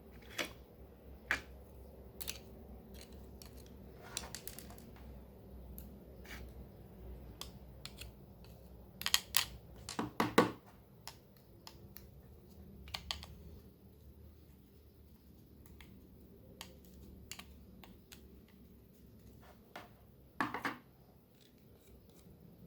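Scattered clicks, taps and light scrapes of small plastic parts of a hair clipper being handled and fitted during repair, with a cluster of louder clicks about halfway through and another near the end.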